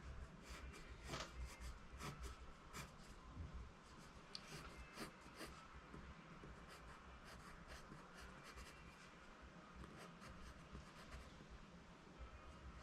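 Faint pencil strokes on paper: many short, quick scratches as a drawing is sketched in by hand.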